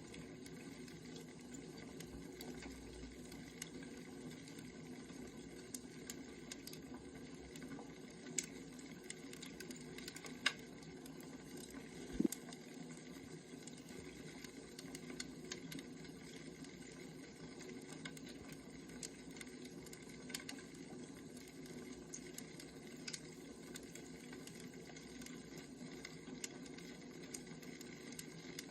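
Wood fire crackling: a faint steady hiss with scattered sharp pops, the loudest a little before halfway.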